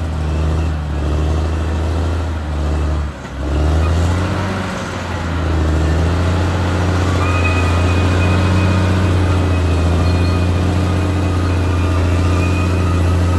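Caterpillar D6R XL bulldozer's diesel engine working. Its note dips a few times in the first three seconds, climbs over a second or two, then holds steady. A faint thin high whine joins about halfway through.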